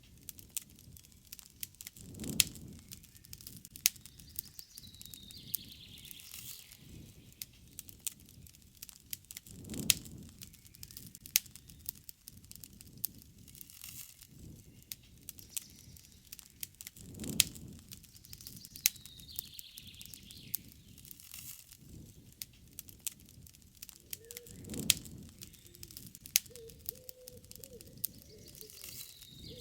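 Wood fire crackling with frequent sharp pops and soft low swells about every seven or eight seconds. A bird repeats a short falling call three times, and a lower, steady call, like a dove's coo, begins near the end.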